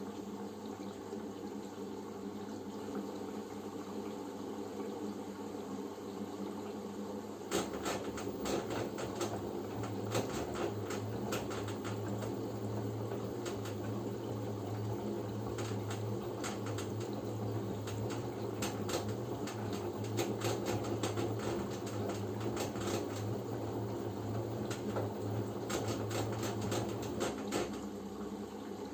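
LG F10B9LD front-loading washing machine at the start of its first rinse: a steady hum, then about seven seconds in water starts rushing through the machine with a low hum and constant crackling splashes, stopping near the end.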